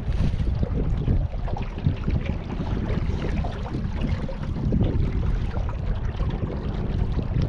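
Wind buffeting the microphone in an uneven low rumble, over the sound of moving water on a river.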